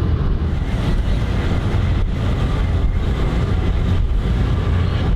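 Steady low engine rumble of a vessel, with an even wash of wind and water noise over it.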